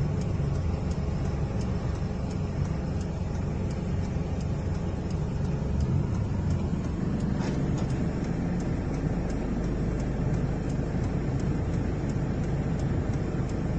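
Steady low rumble of a vehicle on the move, with faint regular ticks over it.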